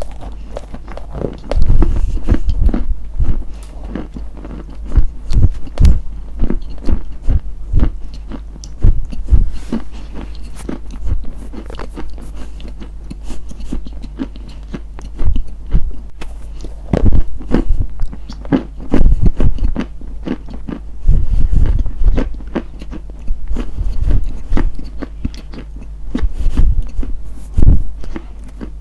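Close-miked crunching and biting into something brittle, in irregular loud bursts of crackling with quieter chewing between, over a steady low hum.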